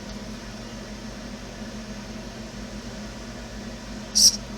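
Steady low electrical hum, then near the end a short high whir from a small hobby servo turning an FPV camera mount side to side.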